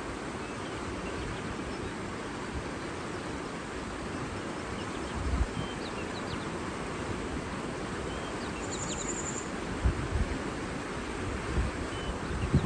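Steady rush of flowing water with faint, short bird chirps scattered through it and a brief high trill about nine seconds in. A few low gusts of wind buffet the microphone.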